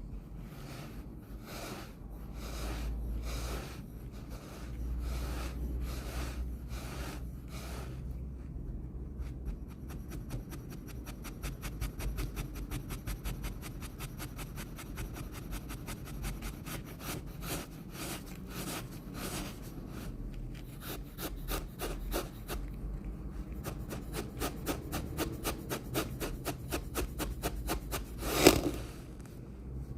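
Wet sand being crunched and crumbled. Distinct crunches come about twice a second at first, then give way to a long run of fast, crackling crunches, with one much louder crunch near the end.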